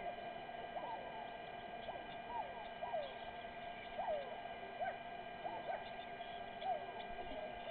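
Steady electrical hum with about a dozen short, falling chirping calls scattered irregularly over it.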